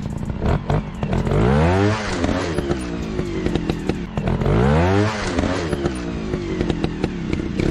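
Motorcycle engine revving in rising and falling pitch sweeps, three times at even spacing, over scattered clicks and clatter.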